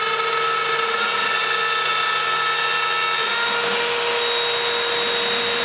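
Garage-built CNC router running a test cut: the spindle gives a loud, steady whine over a rushing noise, and the pitch pattern of the whine changes about three seconds in.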